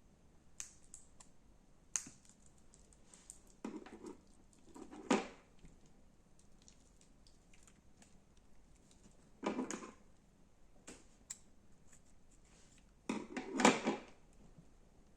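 Slime being worked by hand: scattered small clicks and crackles, with four louder crackling bursts, the loudest near the end.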